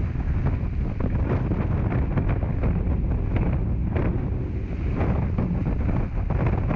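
Strong wind buffeting the microphone aboard a Hobie 16 catamaran sailing fast in high wind, with water rushing past the hulls and frequent short splashes.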